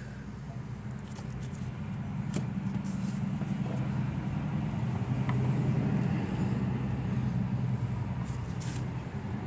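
Dodge Grand Caravan's 3.8-litre V6 idling steadily, growing somewhat louder in the middle, with a few faint clicks over the hum.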